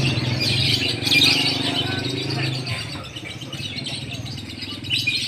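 Lovebirds chattering in rapid, high trills and chirps. A low steady hum runs underneath and stops about two and a half seconds in.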